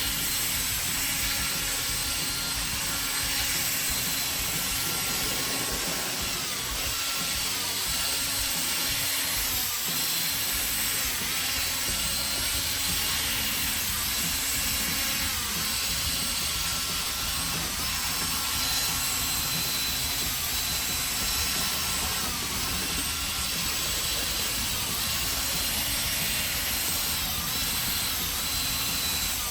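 Power drill spinning a 3000-grit foam sanding pad against a plastic headlight lens during wet sanding: a steady motor whine whose pitch dips briefly every couple of seconds as the pad is pressed and moved over the lens.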